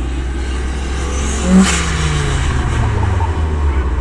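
Turbocharged Honda B16 inline-four in a Civic revving up, with a loud short burst about a second and a half in, after which the engine note falls away.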